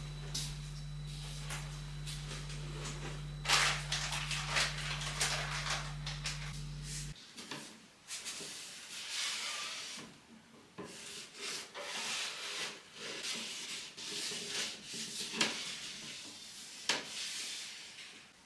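Household handling sounds: repeated rubbing, scraping and light knocks of things being moved and wiped, over a low steady hum that cuts off about seven seconds in.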